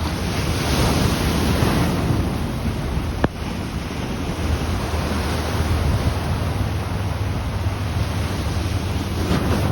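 Sea waves washing onto the shore, a steady rush of surf with wind buffeting the microphone. A single sharp click about a third of the way in.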